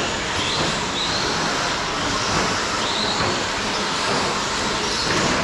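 Several radio-controlled short-course trucks with 17.5-turn brushless electric motors racing around a track, a steady whirring of motors, drivetrains and tyres. Motor whines rise in pitch again and again as the trucks accelerate out of the corners.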